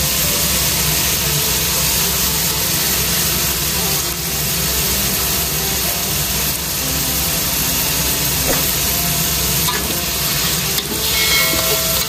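Chicken pieces and sliced onions sizzling as they fry in a wok, with sambal tumis paste added. Near the end a metal ladle stirs the mixture, scraping against the pan.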